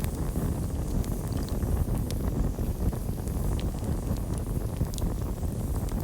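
Campfire burning with a steady low rumble and a few sharp crackles and pops scattered through.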